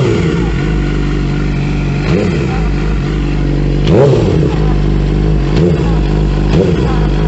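Suzuki GSX-R750 SRAD's inline-four engine running at idle, with a short throttle blip every second or two; the largest blip comes about four seconds in.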